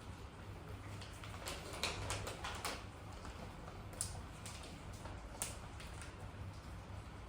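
Light, scattered clicks and taps. There is a quick flurry of them about one to three seconds in, then two sharp single clicks later on.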